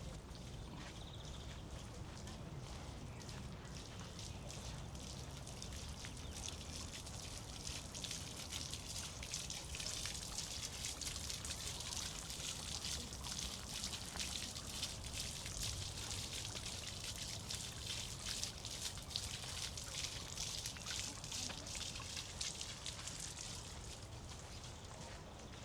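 Running water splashing and trickling. It swells in about a quarter of the way through, is loudest through the middle, and fades off near the end.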